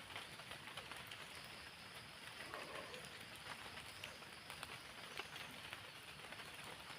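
Rain falling steadily, an even hiss with many small drop ticks, and a faint short bird call about two and a half seconds in.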